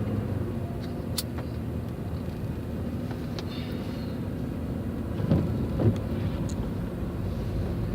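Steady engine and road noise of a vehicle driving on snowy roads, heard from inside the cab. There are two brief louder sounds about five and six seconds in.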